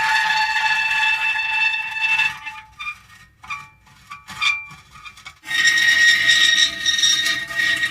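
Metal creaking in long, high-pitched squeals. A drawn-out creak breaks off after about two seconds into short, halting squeaks, and a second long creak starts about five and a half seconds in.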